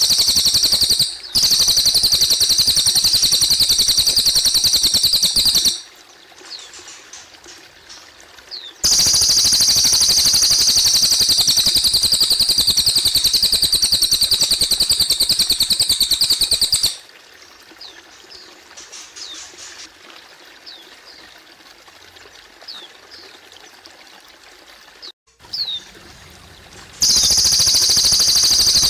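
Cililin bird singing a loud, rapid, high-pitched trill in long stretches of several seconds, stopping twice. In the quieter gaps between them, water trickles and short, thin chirps are heard.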